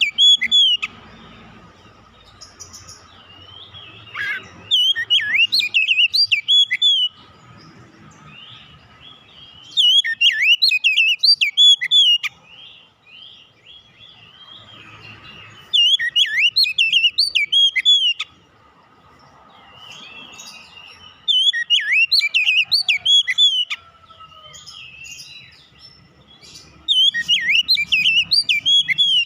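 Oriental magpie-robin (kacer) singing in short bursts of rapid, varied whistled phrases. Each burst lasts about two seconds, and the bursts come back about every five to six seconds, six times.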